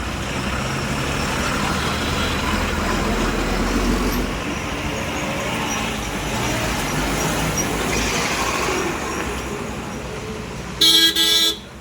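Road traffic of passing trucks, a steady rumble of engines and tyres with a low engine drone in the first few seconds. Near the end a loud vehicle horn blares twice in quick succession.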